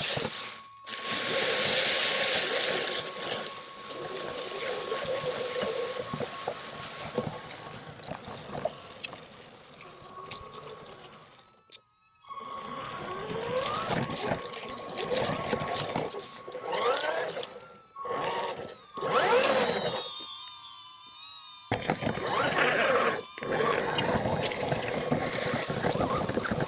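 Haiboxing RC truck driving through dry fallen leaves: the tires churn up a rustling, crackling noise and the electric motor whines up and down in pitch as it speeds up and slows. It goes quiet briefly twice when the truck stops.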